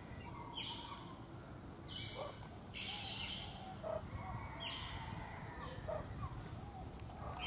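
Birds chirping: about five short, high calls spread out over a few seconds, over a steady low background rumble.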